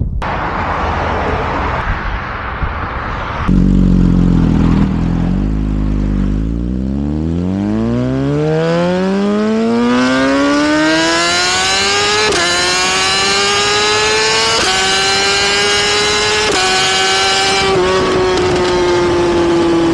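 Sportbike engine accelerating hard through the gears. Its pitch climbs steadily for several seconds, then dips at each of four quick upshifts in the second half.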